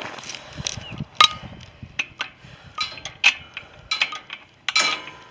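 Metal gate latch and fittings being worked by hand: a run of sharp metallic clinks and rattles, each ringing briefly, with the longest ringing clank near the end.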